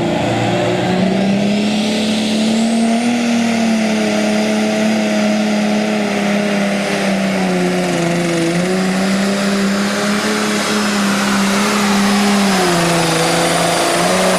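Pro stock pulling tractor's turbocharged diesel engine held at high rpm under load during a pull, its pitch wavering slightly as the load changes. A high turbo whine rises about two seconds in.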